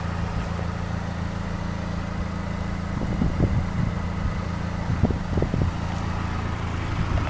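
2012 MazdaSpeed3's 2.3-litre turbocharged four-cylinder engine idling steadily.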